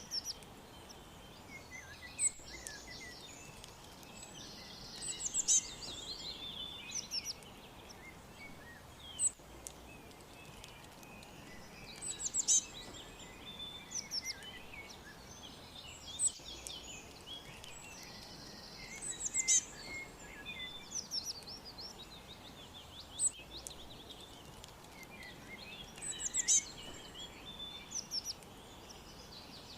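Songbirds chirping: short high-pitched phrases of quick, sweeping notes come every few seconds over a faint steady hiss.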